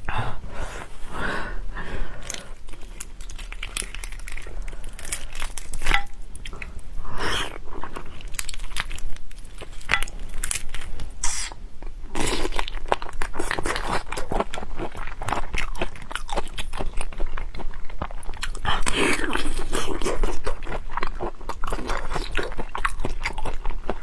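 A person chewing and crunching mouthfuls of raw drunken black tiger prawn, with a steady run of biting and crackling mouth sounds.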